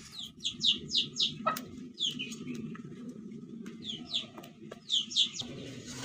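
A bird chirping repeatedly: short, high, quickly falling notes in runs of two to four, with pauses between runs. A single sharp click sounds about a second and a half in.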